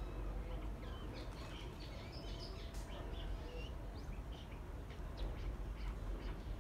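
Birds chirping in short calls over a steady low rumble, with a single small click of a part being handled partway through.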